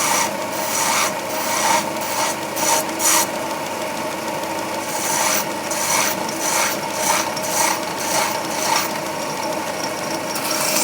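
Metal being worked by hand with a file: a string of uneven rasping strokes, about two a second, over a steady hum.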